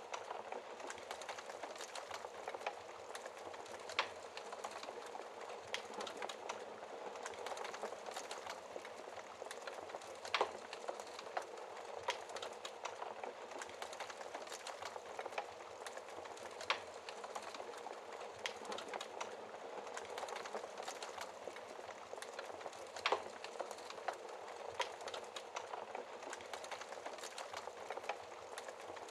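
Fireplace fire crackling steadily, a dense run of small ticks and snaps over a soft hiss, with a sharper, louder pop about every six seconds.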